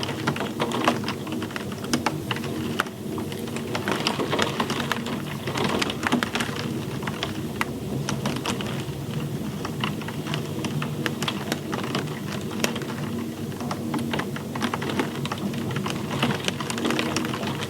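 Steady rain with many close drops ticking irregularly on a hard surface.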